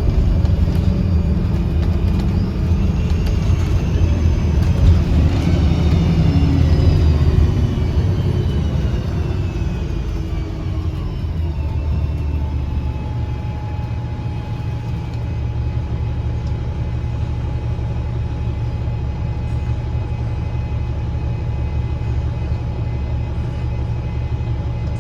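A 2009 Gillig BRT 40-foot transit bus's diesel engine and Voith automatic transmission, heard from inside the bus. For the first ten seconds the bus pulls under power, and whistling tones slide up and down in pitch over the drone. After that it settles into a quieter, steady drone with a steady high whine.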